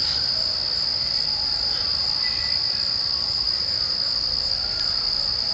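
Steady chorus of night-singing insects, a continuous high-pitched trill with no breaks.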